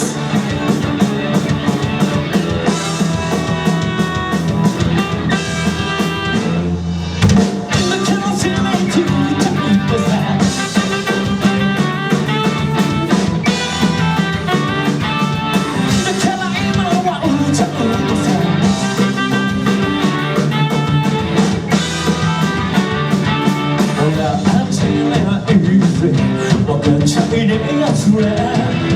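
Live rock band playing a song, with drum kit, electric guitar and singing.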